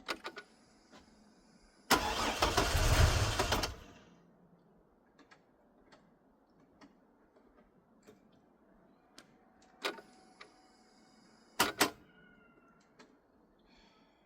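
Chevy Trailblazer's engine cranked on the starter for about two seconds, then stopping without running on: a no-start. Light clicks, as of a key being turned, come just before the cranking and twice more near the end.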